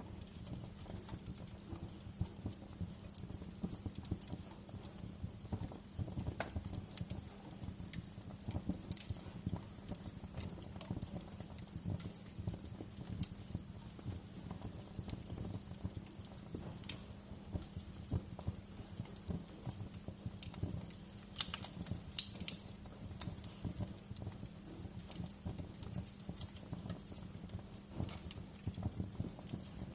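Wood fire in a fireplace crackling, with a dense, irregular patter of small pops and a few sharper snaps around the middle, over a steady low hum.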